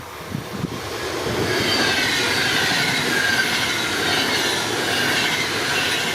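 Intercity train passing, its wheels rolling on the rails with a wavering high squeal from the wheels. The sound builds up about a second in and eases off near the end.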